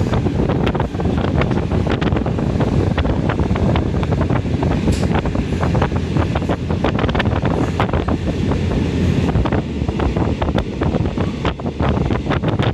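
Moving passenger train heard from inside the carriage: a steady loud rumble of wheels on the track with rapid clattering and rattling, and wind rushing in at the open window.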